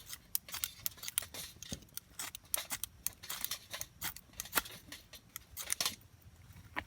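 Irregular sharp clicks and scratchy strikes, a few a second, from repeated attempts to light a campfire that has not yet caught.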